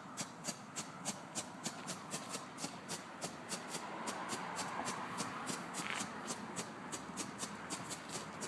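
Strobe firework sputtering as it flashes: a quick, even run of sharp pops, about five a second, that keeps going steadily.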